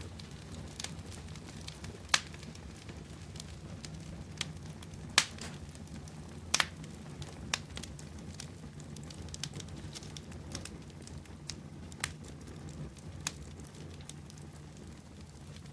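Bonfire of burning wood crackling, with scattered sharp pops, the loudest about 2, 5, 6.5 and 12 seconds in, over a steady low rumble of the flames.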